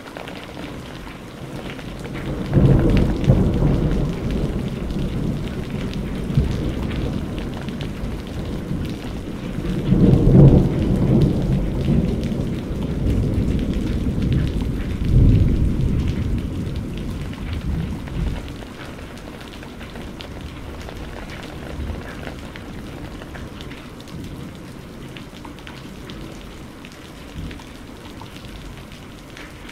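Steady rain with a long rolling peal of thunder. The rumble breaks in about two and a half seconds in, swells again twice, and dies away after about eighteen seconds, leaving the rain alone.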